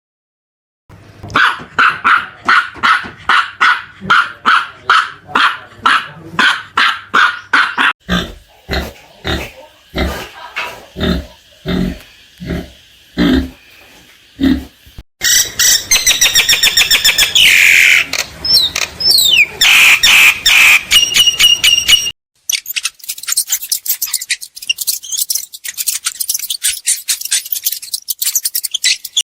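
A run of different animal calls, one recording after another. First comes a fast series of calls, about three a second, for some seven seconds. Then come slower deep calls, about one a second, then high calls that glide up and down in pitch, and in the last seven seconds a rapid crackly patter.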